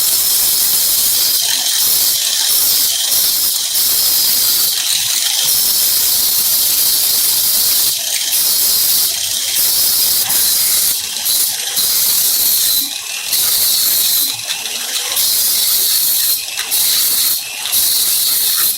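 Power grinder running with a high whine and a loud hiss as it grinds away rust and crust from a metal surface, easing off briefly several times in the second half.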